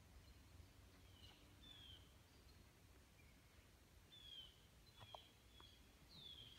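Near silence, with faint bird chirps: short notes gliding downward, repeated about once a second.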